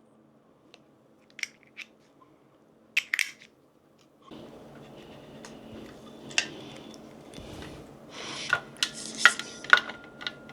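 Metal camera-rig parts clinking and clattering as they are handled. There are a few sharp clicks at first, then from about four seconds in a steady rustle of handling with denser clinks, some briefly ringing.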